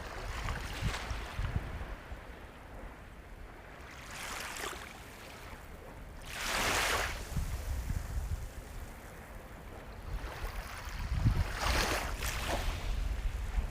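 Sea waves washing onto a shore, a steady hiss of surf that swells into louder washes about four and a half seconds in, again near the middle, and once more near the end.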